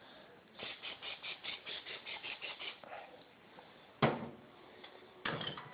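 Pam cooking-spray aerosol can spraying onto the food: a rapid run of short bursts, about six a second, then two single longer sprays.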